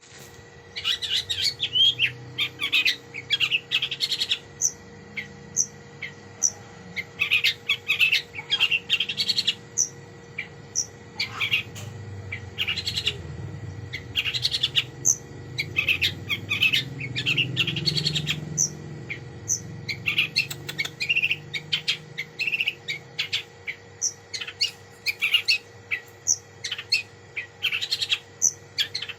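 Long-tailed shrike (cendet) singing: a fast, unbroken run of short sharp chirps and chattering notes, its song full of phrases mimicked from other birds.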